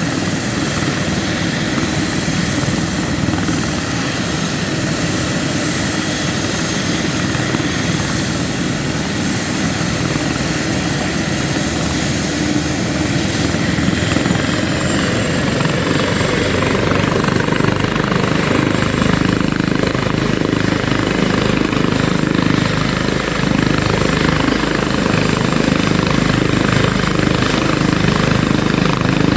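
Trauma helicopter's turbine engines and rotor running steadily with a thin high-pitched turbine whine; the low rotor sound grows stronger about halfway through.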